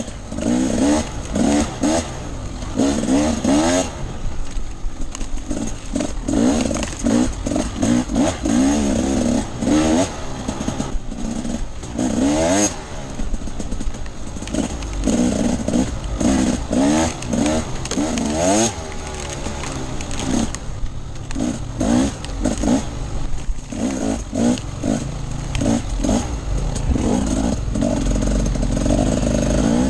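Off-road enduro motorcycle engine revving hard and easing off again and again as it is ridden, its pitch rising and falling every second or so, with clatter and rushing noise.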